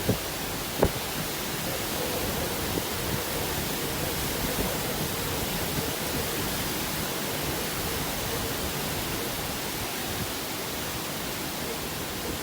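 Strong typhoon winds blowing: a steady, dense rushing noise, with one brief thump about a second in.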